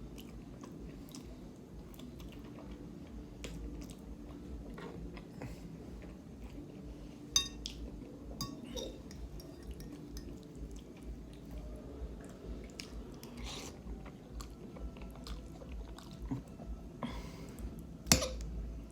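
Close-miked eating of instant noodles with barbecue pork ribs: wet chewing and small mouth clicks throughout. Two sharp clicks stand out, one about seven seconds in and one near the end.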